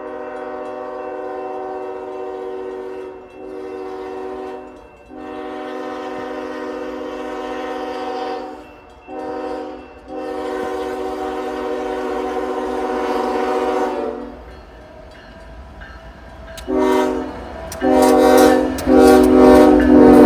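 Freight locomotive air horn sounding a series of blasts, several tones at once: long blasts broken by short gaps, a lull of about two seconds, then three shorter, louder blasts near the end. A low rumble from the oncoming train rises in right at the end.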